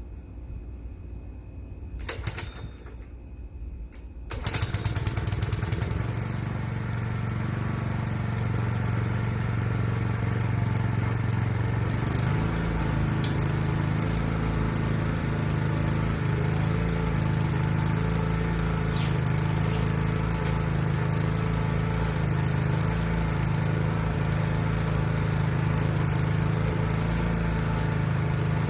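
Small lawn-equipment engine cold-starting: it turns over twice, catches about four seconds in and settles into running. About twelve seconds in it speeds up, then runs steadily.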